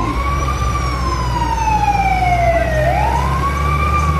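A siren wailing: its pitch rises quickly, then slides slowly down over about two and a half seconds, twice, over a steady low rumble.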